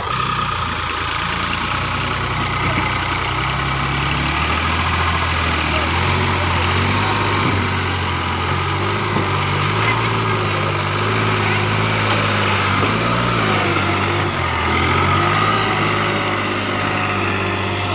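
Tractor engine running steadily, its speed shifting up and down a little.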